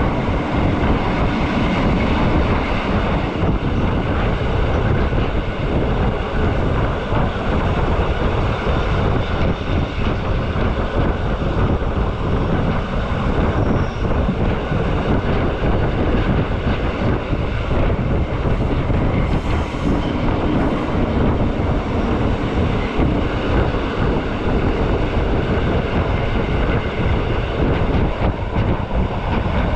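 Rhaetian Railway metre-gauge train running steadily along the track: a continuous loud rumble and rushing noise with no breaks.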